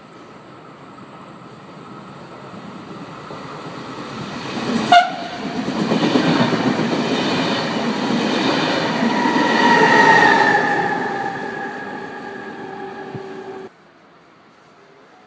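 A train approaching and passing at speed through a station, its rolling noise building up over several seconds, with a very short horn blast as it arrives. A whine falls in pitch as it goes by. The sound cuts off abruptly near the end.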